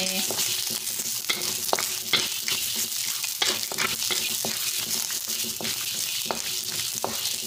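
Curry leaves, dried red chillies and dal sizzling in hot oil in a non-stick wok, with a steady frying hiss. A spatula stirring them scrapes and taps against the pan in irregular clicks.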